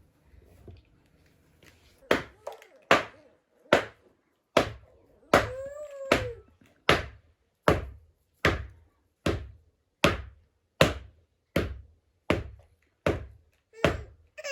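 Steady, evenly paced blows of a hand tool striking something hard, about one every 0.8 seconds, starting about two seconds in. A cat meows once midway.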